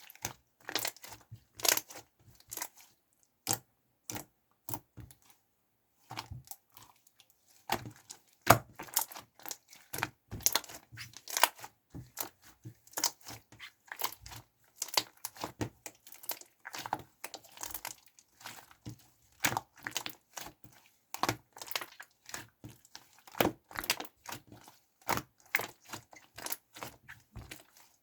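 Clear glitter slime being squeezed and stretched by hand, giving a dense, irregular run of sticky clicks and pops, with a short pause about five seconds in.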